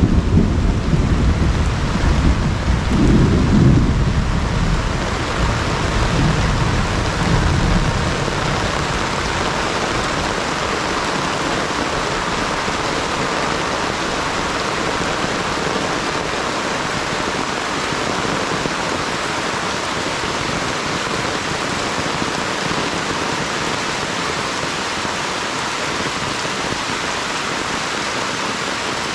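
Steady rain pouring down, with a low rumble of thunder rolling through the first several seconds and dying away about eight seconds in.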